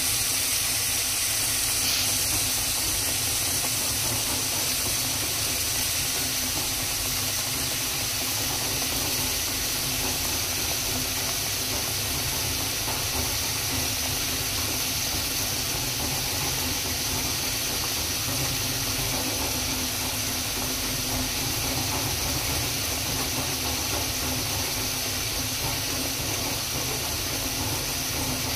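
Steady sizzling hiss of food frying in hot oil in a pan.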